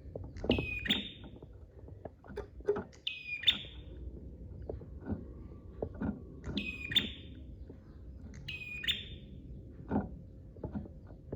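Prenjak (prinia) calling: a loud call repeated about every two to three seconds, each a sharp note that drops to a short held tone, with quick dry clicking notes between the calls.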